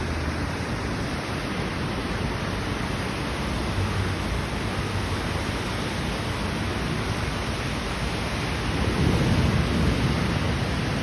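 Heavy rain pouring steadily, with a low rumble swelling up about three-quarters of the way through.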